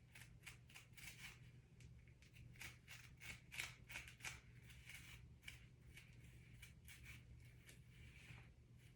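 Faint, irregular strokes of a hairbrush brushing hair back, several a second, over a steady low hum.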